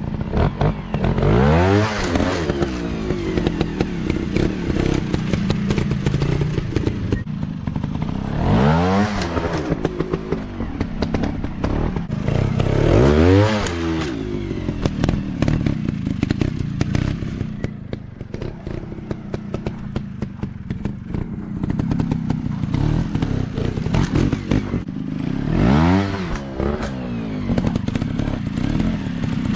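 Dirt bike engines revving hard and dropping back, with about four strong bursts of throttle over a steadier running engine, mixed with knocks and rattles.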